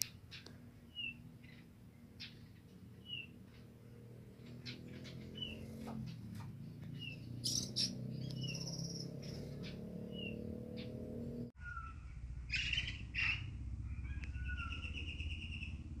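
A caged tledekan flycatcher calling: short, downward-slurred chirps repeated about once a second, over a low steady background rumble. About two-thirds of the way through, the calls turn to lower notes and a buzzy, rattling trill.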